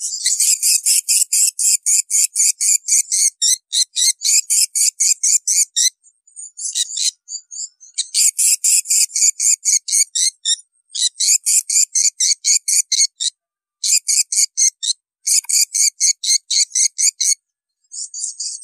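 Swiftlet twittering call, as played to lure swiftlets to a bird house: fast runs of high, sharp chirps, about four to five a second, in stretches of a few seconds broken by short pauses.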